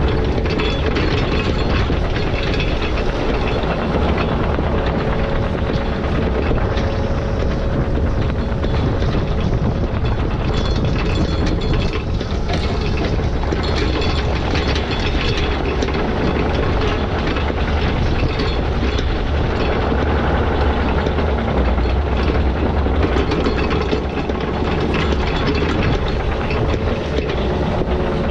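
Heavy diesel digging equipment running steadily at work, with continuous rattling and clanking over the engine's drone.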